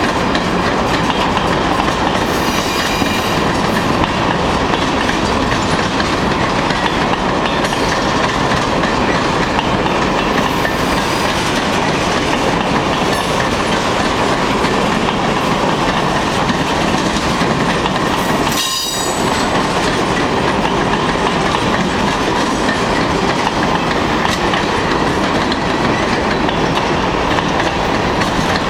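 Freight train cars rolling past close by: a steady, loud rumble of steel wheels on rail, with brief high wheel squeals about two to three seconds in and again around ten seconds.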